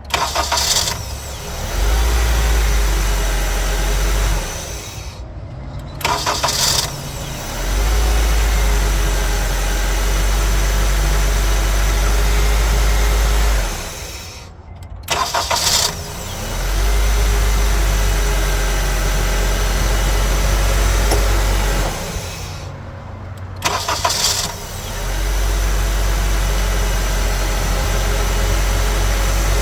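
A 2004 Honda CR-V's four-cylinder engine is started four times, each a short crank that catches at once and settles into a steady idle, and it is switched off between runs. The newly fitted remanufactured starter cranks cleanly, with no grinding.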